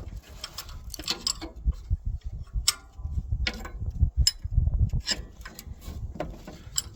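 Wrench clicking and knocking against metal while loosening engine mounting bolts: irregular sharp metallic clicks and taps, a few to a second.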